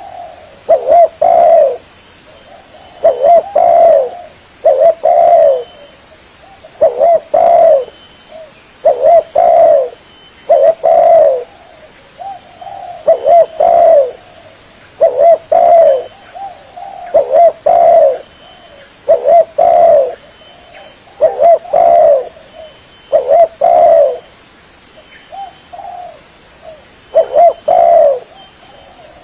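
Spotted dove (tekukur) singing its cooing song: short phrases of two or three low coos, repeated about every two seconds, with a brief pause near the end.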